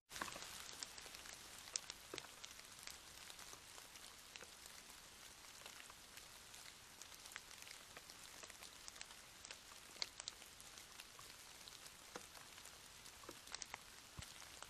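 Steady rain falling, with many scattered louder drops ticking on a nearby surface; it cuts in suddenly at the start.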